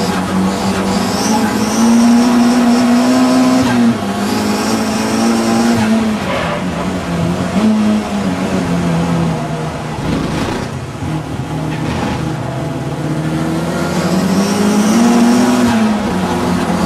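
Audi TT race car engine running hard, its note climbing under acceleration and dropping back at gear changes and braking several times over. Tyres squeal at times.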